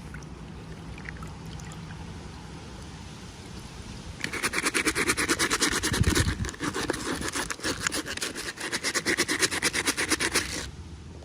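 Rapid rhythmic scratching, many short back-and-forth strokes a second, starting about four seconds in and stopping suddenly near the end.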